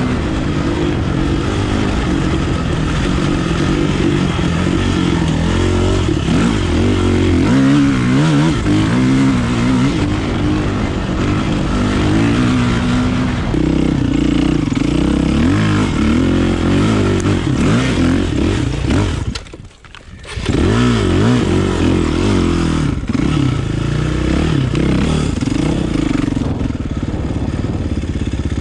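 Kawasaki KLX450R dirt bike's four-stroke single-cylinder engine running under way, its revs rising and falling constantly, with a brief drop in sound about two-thirds of the way through.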